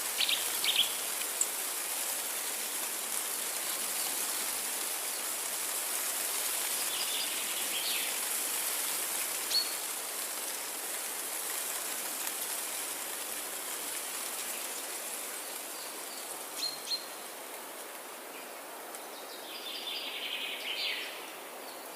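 Forest ambience: a steady high hiss, with wild birds giving short chirps now and then and a quick run of calls near the end.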